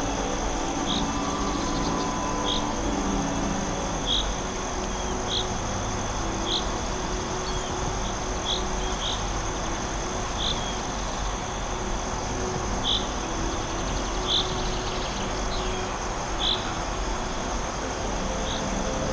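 Forest night ambience: a steady high insect trill, with short high chirps repeating about once every second or so over a faint low drone.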